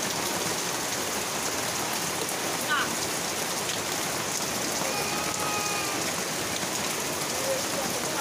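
Heavy rain falling steadily on corrugated metal sheet roofs and tree leaves, with water streaming off the roof edges: a dense, even hiss of rain with no let-up.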